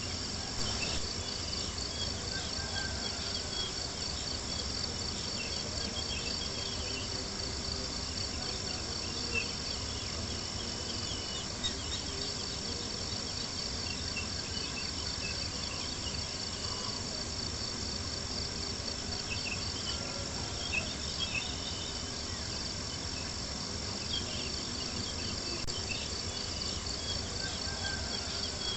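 Dense, steady chorus of crickets chirping, with a campfire crackling underneath and a few sharper pops scattered through.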